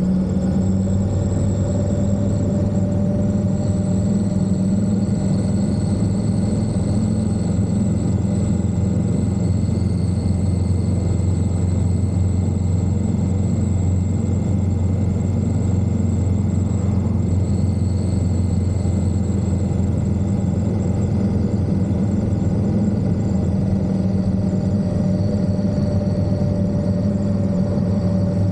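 Indian Scout motorcycle's V-twin engine running at a steady cruising pace, its note holding nearly constant with only slight drifts in pitch.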